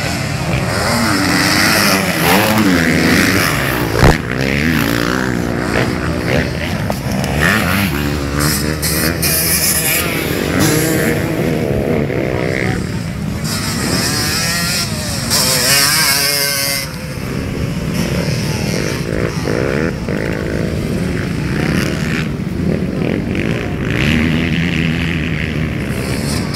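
Motocross bikes' engines revving up and easing off again and again as they ride, with overlapping engine notes rising and falling. A single sharp bang about four seconds in.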